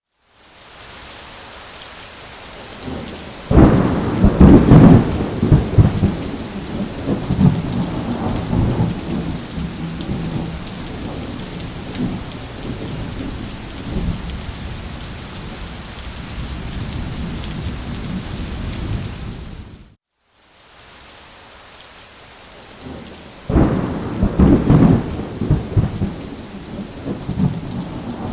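Steady rain with a loud roll of thunder that rumbles and fades, twice. The sound drops out briefly between the two rolls.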